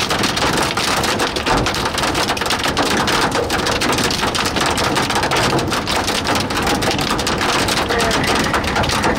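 Torrential rain drumming on a vehicle's windshield and roof, heard from inside the cab: a dense, unbroken clatter of drops striking, loud and steady throughout.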